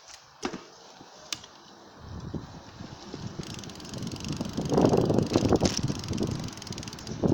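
A few sharp clicks, then rumbling wheel and road noise that builds steadily over a few seconds as a bicycle gets moving, heard from a camera mounted by its back wheel.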